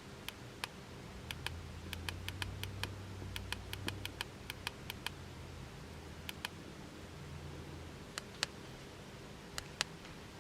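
Clicking at a laptop: a quick, irregular run of sharp clicks over the first five seconds, then a few single clicks and pairs towards the end, over a faint low hum.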